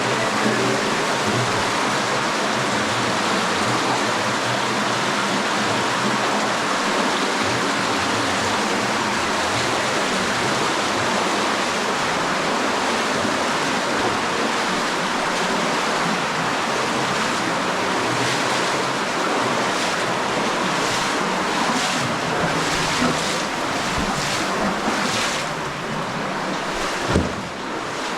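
Underground spring stream rushing steadily, swollen by recent heavy rain. A short knock sounds near the end.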